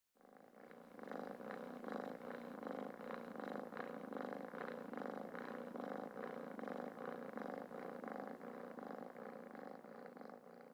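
Cat purring steadily, fading toward the end.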